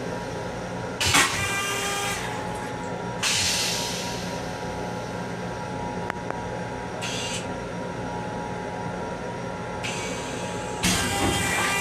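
Steady hum of an M7 electric railcar heard from inside its restroom, broken by short hisses about a second in, around three and seven seconds, and near the end. The hiss about a second in is the loudest and carries a brief ringing tone.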